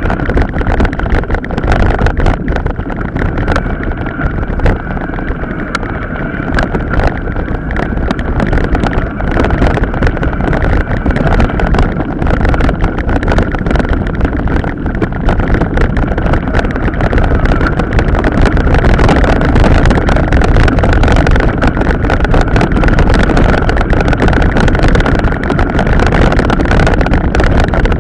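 Wind buffeting a bike-mounted camera microphone while riding an off-road trail, with the mountain bike rattling and knocking over the rough ground and a steady whine underneath. It grows a little louder in the second half.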